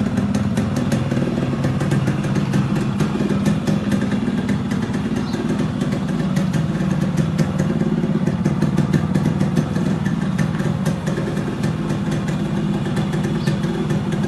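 Yamaha RX135's two-stroke single-cylinder engine running steadily at an even speed on its original exhaust, with a crackly patter of sharp ticks over the low engine note.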